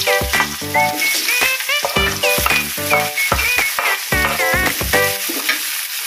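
Sliced shallots, chillies and tomato sizzling as they are scraped off a wooden board into hot oil in a wok, with a metal spatula scraping and knocking against the pan. Background music with short repeated melodic notes plays over the frying.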